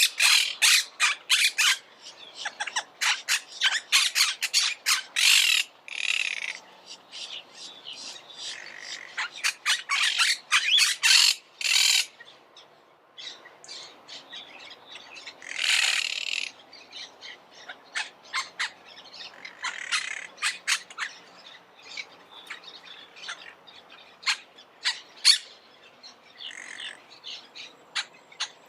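Monk parakeets giving rapid runs of harsh, shrill squawks, with a few longer screeching calls mixed in. The calling is densest in the first half, dies down briefly in the middle and then picks up again.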